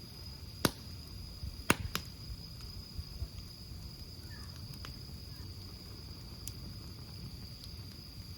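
Wood campfire burning with a low steady rumble and scattered sharp crackles and pops, the loudest pop coming just under two seconds in. A thin steady high-pitched tone sounds throughout.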